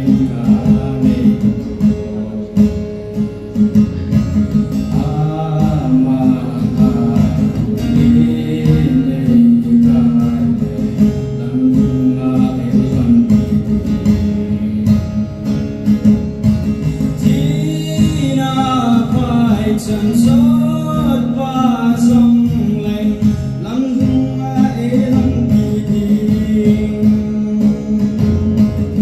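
A song sung to acoustic guitar strumming, with the voice coming and going over the steady guitar accompaniment.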